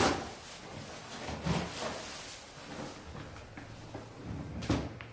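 Several separate knocks and clunks of hard objects being handled, the first at the very start, a pair about a second and a half in, and a sharper one near the end.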